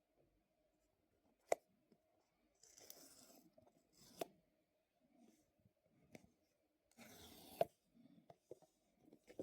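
Phone box and packaging being handled during an unboxing: two short stretches of rasping, like film or paper being pulled, and a few sharp clicks, the last one ending the second rasp.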